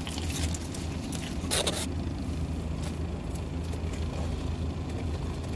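Steady low hum of a car cabin with the engine running, and a short burst of noise about a second and a half in.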